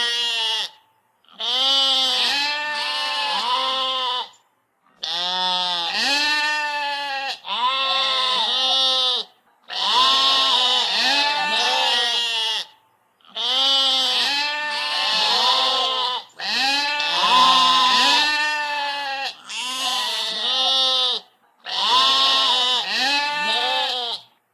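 Sheep bleating over and over: about nine long, quavering calls of two to three seconds each, separated by short breaks.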